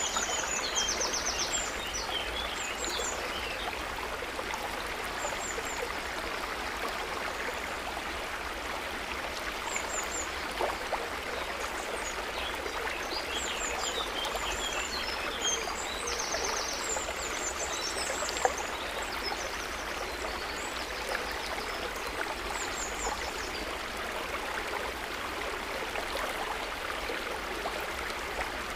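Steady trickling and small gurgling of lake water, with small birds chirping now and then, most around the start and through the middle.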